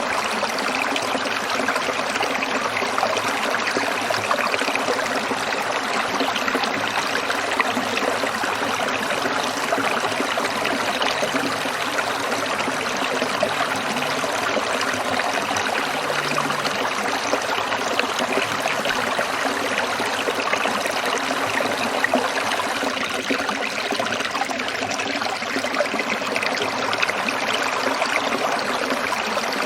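Water trickling and splashing over stones in a small stream, a steady bubbling flow.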